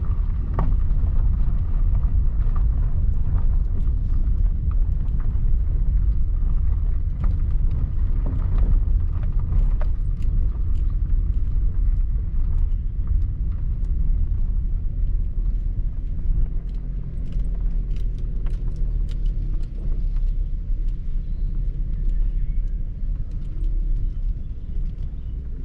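Car driving: a steady low road rumble with scattered light ticks over it.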